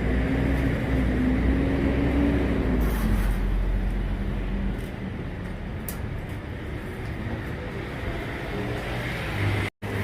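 Street traffic noise: a steady low rumble, louder for the first five seconds and then easing, with a brief dropout just before the end.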